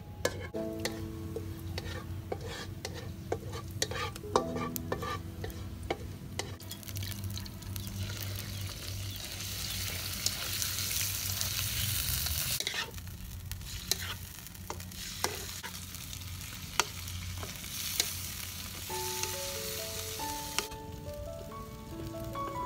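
Chicken intestines frying in a hot wok, stirred with a wooden spatula and chopsticks that click and scrape against the pan. A loud, hissing sizzle swells about a third of the way in, cuts off suddenly around the middle, and comes back briefly later.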